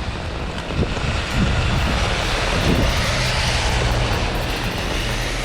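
Storm wind buffeting the microphone: a loud, steady roar that swells about a second in.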